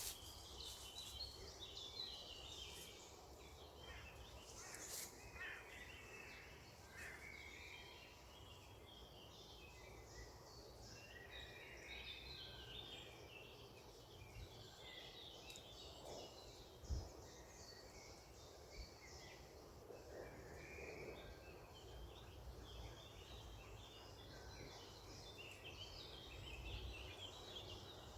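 Faint chorus of small birds chirping and twittering continuously, over a soft low background rumble, with one brief thud about 17 seconds in.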